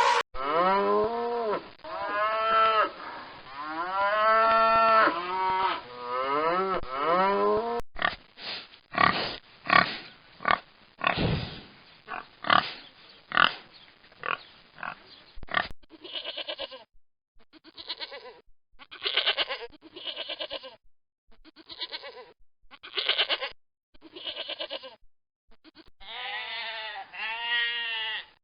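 Farm animal calls: drawn-out pitched calls for about the first eight seconds, then a run of short rough grunts, then choppy pulsed calls, with pitched calls again near the end.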